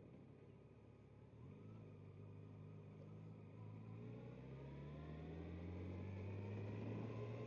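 Yamaha FJR1300's inline-four engine, heard from the rider's helmet mic. About a second and a half in, the engine note picks up and rises steadily in pitch and loudness as the motorcycle accelerates along the road.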